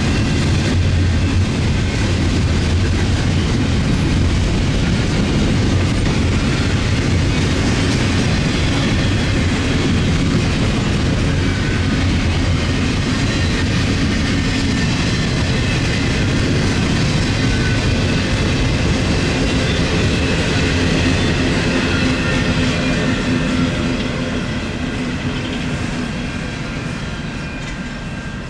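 Intermodal freight cars of a CN train rolling past as the train slows, with the rumble of the wheels and a clickety-clack over the rail joints, and a thin squeal from the wheels at times. The sound fades over the last few seconds.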